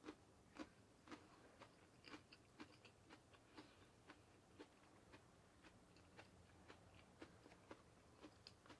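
Faint, close chewing of a mouthful of stir-fried cabbage and crunchy fried tempura bits: soft crunches repeating about twice a second.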